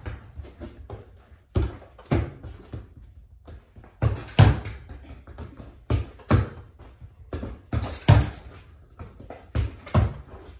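A ball passed against a wall and coming back, dull thuds mostly in pairs about every two seconds.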